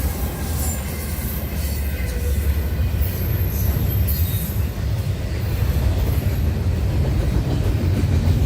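Freight train rolling past: a steady heavy rumble of rail cars on the track, with a brief high wheel squeal near the middle.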